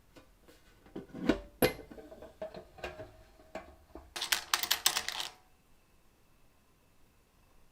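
Metal clicks and knocks from handling the old coin-operated lottery machine: two sharp knocks about a second and a half in, scattered clicks, then a quick run of rattling clicks around four to five seconds in.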